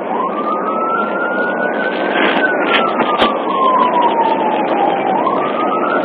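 Police car siren on its wail setting, sliding slowly up, then down, and starting to rise again near the end, over steady road and engine noise from the moving cruiser.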